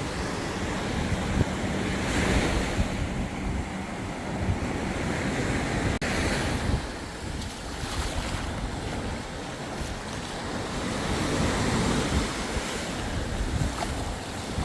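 Caribbean surf washing onto the beach, swelling and easing every few seconds, with wind buffeting the microphone.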